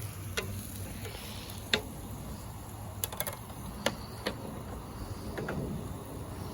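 Spatula or spoon clicking against a pan while stirring chopped onions frying in oil: about half a dozen sharp, irregular taps over a low steady hiss.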